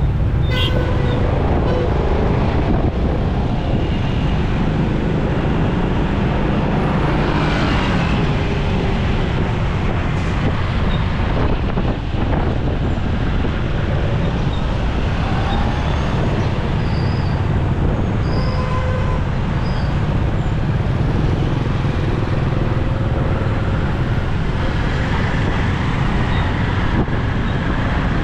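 Steady noise of riding a motorcycle through city traffic: the bike's engine and road noise with surrounding vehicles, continuous and unbroken.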